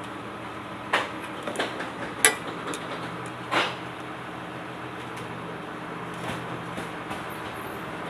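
Small metal clicks and knocks from table fan motor parts being handled and tightened during reassembly, several in the first half, the loudest about two seconds in, then a steady faint hum.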